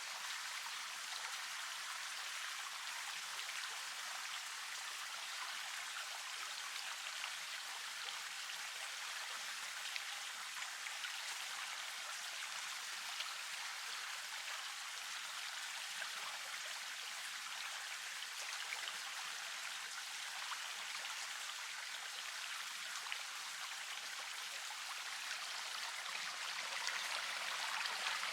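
River water flowing steadily, an even rushing hiss with fine splashing and trickling, growing a little louder near the end.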